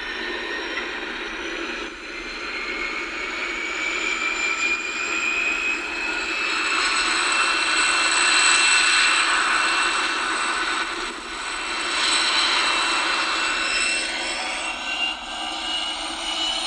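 N scale model locomotive running along the track: a high electric-motor whine over wheel and rail noise. The whine rises slowly in pitch, grows loudest about halfway through, then eases off near the end.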